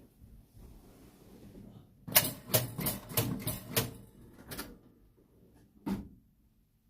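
A quick run of about seven sharp clicks and rattles over two and a half seconds, then a single knock near the end. These are handling noises in the car in the moments before the cold engine is cranked; the engine itself is not yet running.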